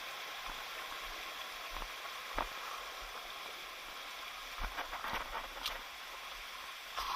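Steady rush of a jungle stream or waterfall, with a few light knocks scattered through it.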